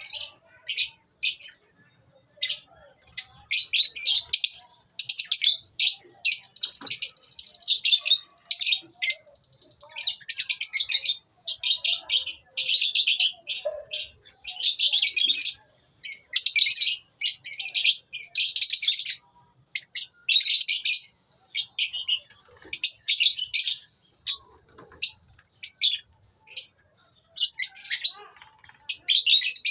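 A colony of lovebirds chirping and chattering: shrill, overlapping calls in bursts of a second or two, with short pauses between them.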